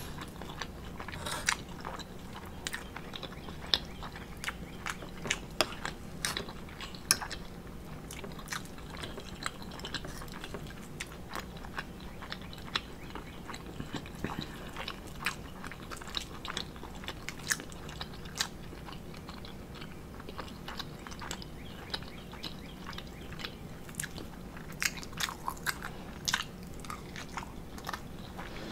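Close-miked chewing and mouth sounds of a person eating an omelet, with many short scattered clicks, some of them a metal fork tapping and scraping a ceramic plate.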